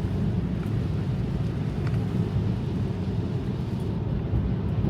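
Steady low road rumble of a Tesla's tyres on wet pavement, heard inside the car's cabin while driving.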